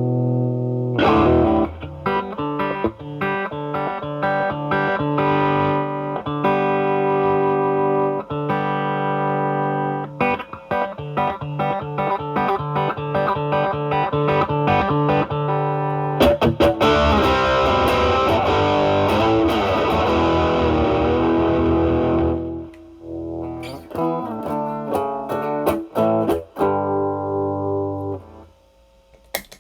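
Overdriven electric guitar, a Fender Stratocaster through an Ibanez Tube Screamer Mini into a Marshall Valvestate's drive channel, playing single-note licks and chords. There is a loud, denser stretch of strummed chords past the middle, then a few sparse notes that die away near the end.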